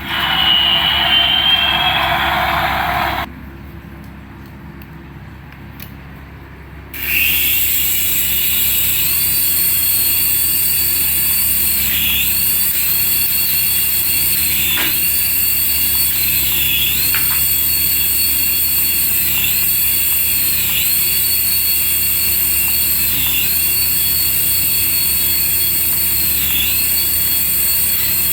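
Toy plane's electronic jet-engine sound effect, starting about seven seconds in after a brief quieter lull: a steady high-pitched whine that repeats in a loop, dipping about every two and a half seconds.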